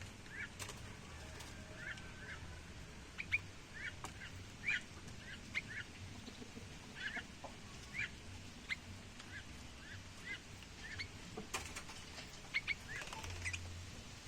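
Small birds giving short, high chirps, one or two notes at a time, scattered irregularly, with a few sharp clicks among them.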